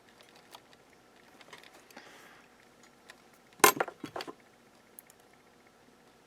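Small hard metal objects clattering on a workbench: a quick burst of sharp clicks and rattles a little over three and a half seconds in, with faint handling clicks around it.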